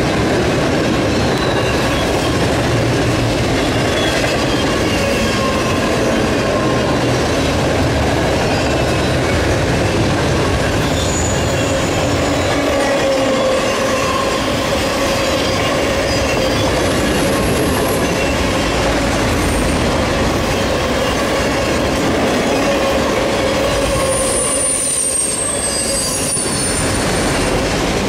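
Loaded freight train of enclosed autorack cars rolling past close by at speed: a loud, steady rumble and rattle of steel wheels on rail. Thin, high-pitched wheel squeals come through a few times, the longest near the end.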